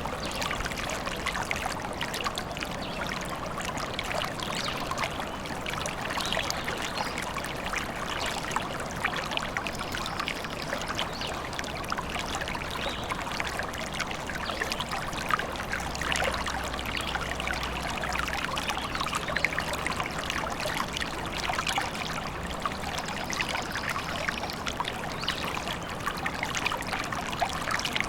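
A small stream trickling and babbling over stones, steady throughout.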